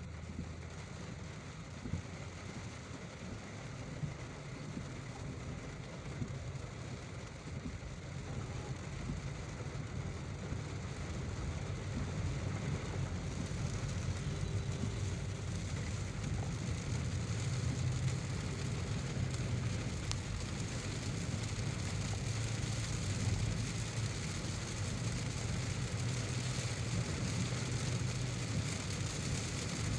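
Car driving in heavy rain: a steady hiss of rain over a low rumble of the car on the road. The rain hiss grows louder about halfway through.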